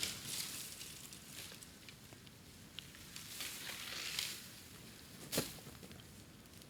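Bamboo burning on a bonfire, crackling and hissing, with one sharp crack a little past five seconds in.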